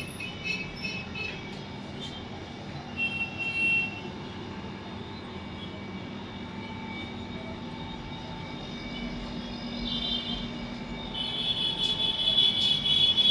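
Steady rumble of vehicle noise, with short high tones about three seconds in and a louder run of high tones from about ten seconds in.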